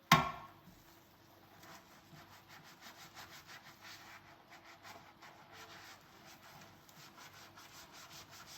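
Dishes knocking together once with a short ring just after the start, then quick, even scrubbing strokes on a dish during hand dishwashing, about three a second.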